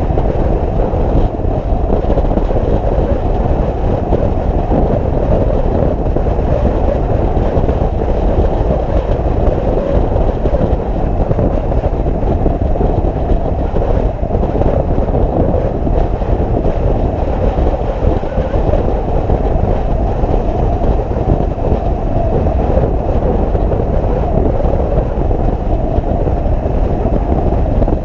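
Motorcycle riding noise: a loud, steady, unbroken rush of engine and wind, low and dull in tone.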